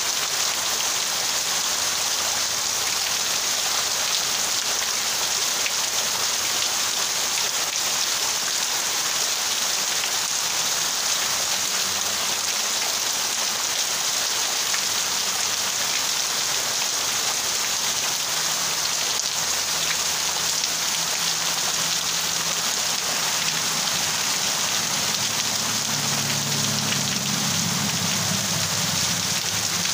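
Heavy rain in a steady downpour, a dense even hiss, with water streaming off a roof edge. A faint low hum comes in during the second half and grows near the end.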